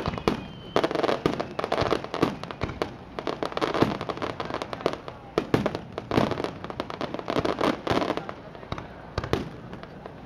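Fireworks display bursting: a rapid run of sharp cracks and crackling that surges into dense clusters several times.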